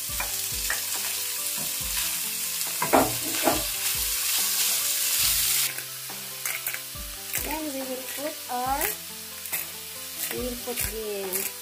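Cubes of raw beef sizzling as they fry in hot olive oil with onion and garlic in a frying pan, with scattered clicks. The sizzle is loudest for the first half, then drops to a softer hiss about halfway through.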